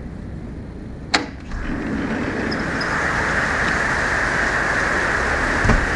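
Heavy rain falling steadily, coming up loud after a sharp click about a second in; a low bump near the end.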